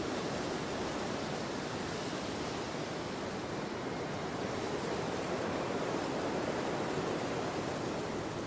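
Strong autumn storm wind blowing as a steady rushing noise, swelling a little stronger in the middle.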